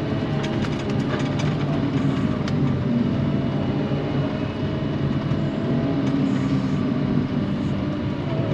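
Heavy snow-clearing machine's diesel engine running steadily, with scattered light clicks and rattles.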